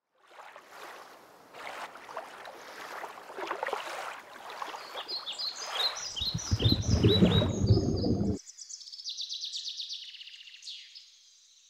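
Birds chirping over a rushing background hiss. A loud low rumble joins about six seconds in and cuts off suddenly a couple of seconds later, leaving a fast, high bird trill that fades out.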